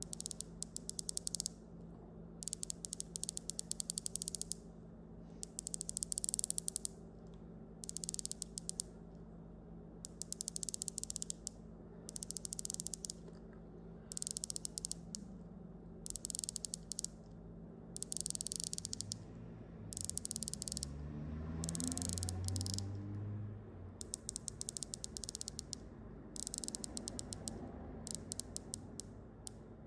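Rolex Submariner 114060's unidirectional black ceramic dive bezel being turned by hand, ratcheting in repeated runs of rapid clicks. Each run lasts about a second, with short pauses between them.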